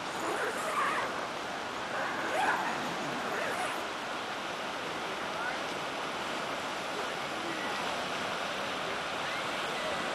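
Steady rushing of a fast-running river. A few faint brief sounds rise over it in the first four seconds.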